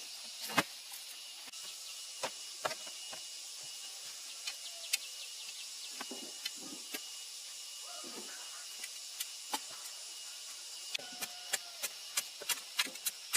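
Steady high-pitched drone of insects with a constant tone, broken by scattered sharp knocks and taps that come thicker near the end.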